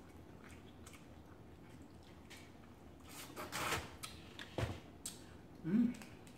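Close-up eating and shell-handling sounds from a person eating boiled shrimp and other shellfish: scattered soft clicks, a longer noisy stretch about three and a half seconds in, a couple of sharper clicks, and a brief low hum near the end.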